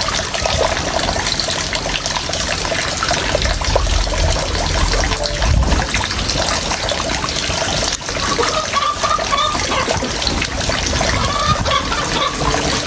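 Steady trickling and splashing of water.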